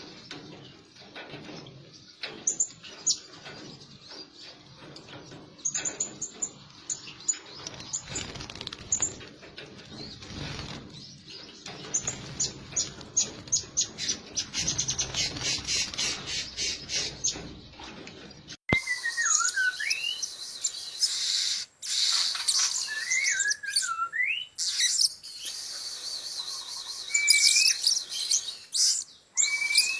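Blue-crowned hanging parrots calling: a rapid run of high, thin chirps and squeaks. About two-thirds in the recording changes abruptly to a louder, clearer one with more chirps and short whistles that glide up and down in pitch.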